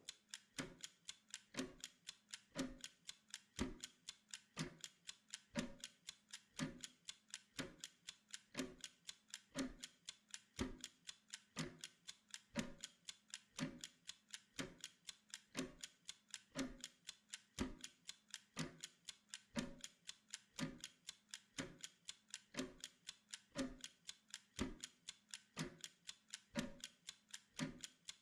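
Soft, steady ticking of a timer, several quick ticks a second with a stronger tick about once a second.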